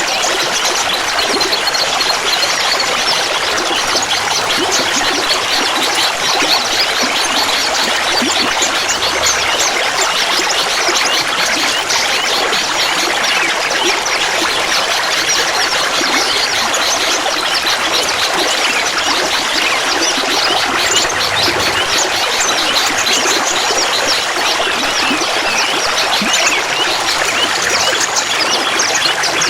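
Clear water trickling and babbling steadily, a dense patter of small splashes.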